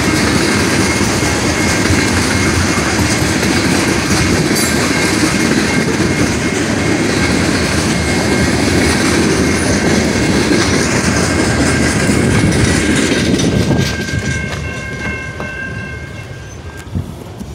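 Freight train of tank cars and covered hopper cars rolling past. The noise stays loud and steady, then falls away sharply about three-quarters of the way through.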